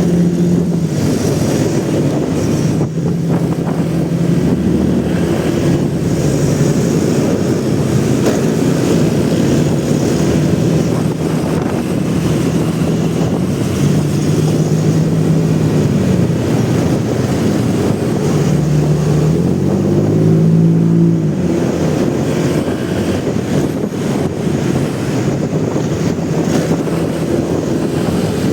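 Motorcycle engine running while riding, its pitch rising and falling with the throttle, with wind rushing over the microphone. The revs climb highest about two-thirds of the way through.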